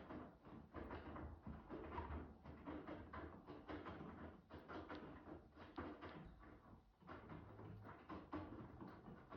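Miele W2 washing machine drum turning during a wash. A load of jeans and dark clothes tumbles with irregular soft thuds and swishes over a low motor hum.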